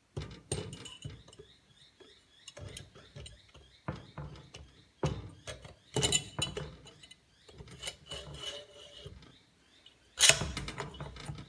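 Cylinder barrel of a 125cc motorbike engine being fitted over the piston and studs: scattered metallic clinks and knocks as the parts are handled. The loudest knocks come about five, six and ten seconds in.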